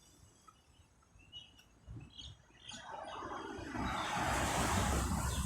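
A few short bird chirps, then the rushing noise of a passing road vehicle swells from about three seconds in and is the loudest sound near the end.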